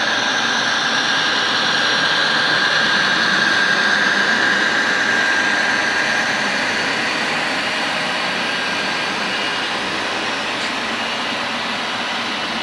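Model train running on the layout track: a steady mechanical whir with a thin high whine. It swells a little a few seconds in, then slowly eases off.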